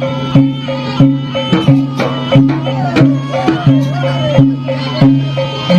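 Traditional Javanese horse-dance (jaranan) ensemble music: hand-drum strokes fall about one and a half times a second over steady low sustained tones, with a wavering melody line in the middle.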